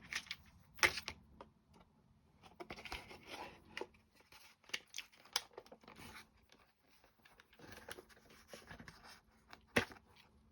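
An AA battery being fumbled into a clock movement's battery holder: irregular small clicks, scrapes and rustles, with one sharper click near the end.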